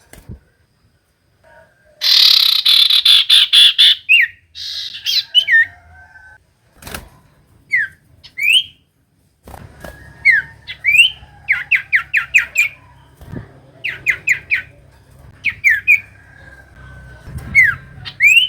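Common iora (cipoh) calling: a loud harsh chattering squawk about two seconds in, then sharp whistled notes sliding up or down, some in quick runs of four or five. It is played as lure audio to draw other ioras into singing.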